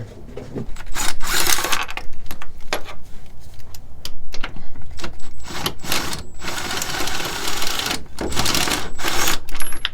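Short bursts of rapid mechanical clicking and rattling from a hand tool or power tool working a fastener on a car's rear shock absorber mount, several times over.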